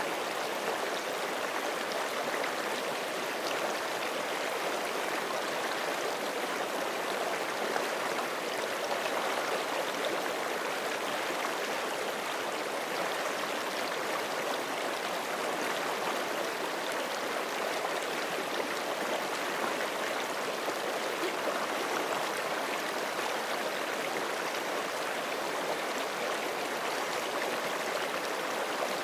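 A forest creek flowing steadily over rocks, an even rushing and gurgling of running water.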